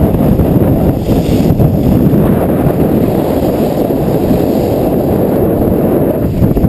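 Heavy wind buffeting on a GoPro's microphone during a downhill ski run, as a steady loud rumble, with a brief brighter hiss about a second in.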